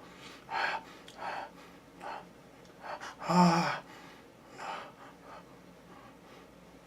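A man's heavy breathing: about six short, breathy gasps and sighs over the first five seconds, the loudest a voiced groan about three and a half seconds in. These are the strained breaths of someone holding off from eating food in front of him, which he calls torture.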